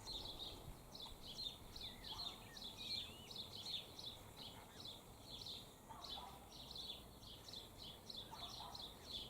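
Faint birdsong: short high chirps repeating several times a second, with a few lower calls now and then.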